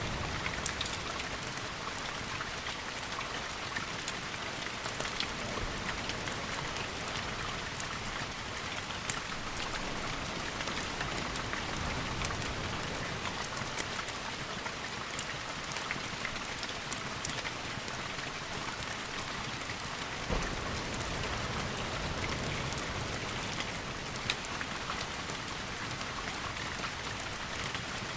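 Steady rain ambience: an even hiss of rainfall with many sharp little ticks of drops, over a faint low rumble.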